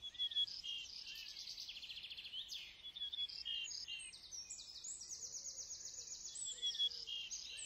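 Several birds singing at once: high chirps and rapid trills, one call overlapping the next.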